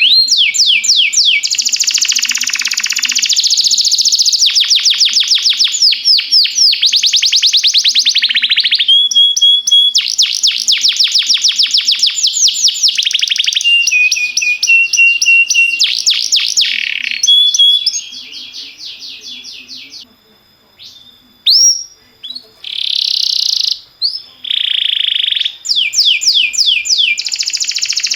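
Domestic canary singing a long, loud song of fast trills and rolls of repeated notes, switching to a new trill every second or two. About two-thirds of the way through it drops briefly to a few quiet single notes before the rapid trills resume.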